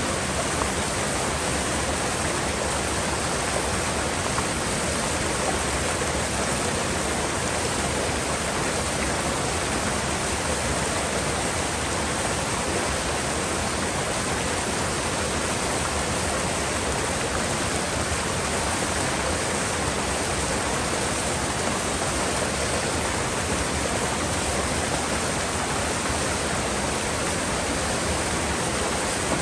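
Gorge river water rushing steadily, an even, unbroken roar of flowing water.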